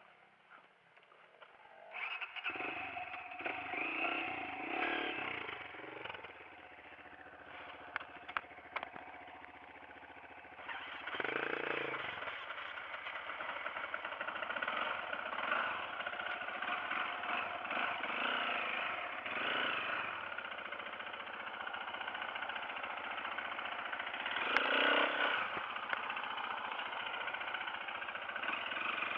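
Dirt bike engine starting about two seconds in and running, revving up and down; about eleven seconds in it gets louder and keeps running with repeated rises in revs.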